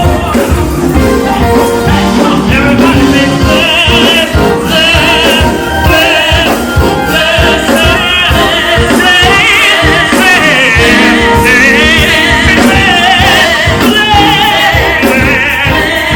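Live gospel music: a band with a steady drum beat under singing, the voices holding long wavering notes with vibrato.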